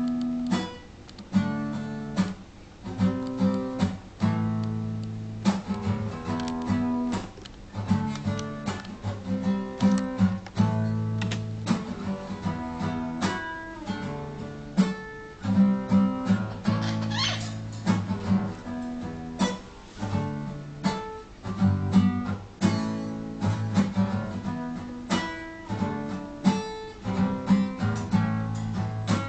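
Acoustic guitar being played: strummed and picked chords, each with a sharp attack, in a steady run of changing chords.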